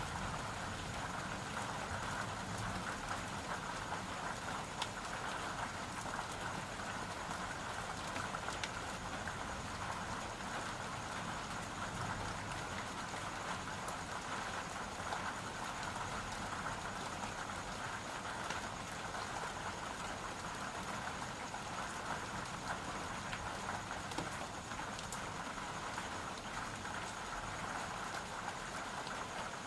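Steady rain falling, a constant even hiss with scattered light taps of individual drops.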